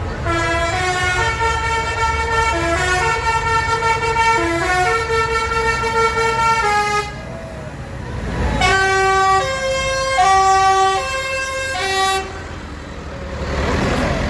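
A musical vehicle horn playing a tune of held notes in two phrases, with a pause of about a second and a half between them. Tractor engines run underneath.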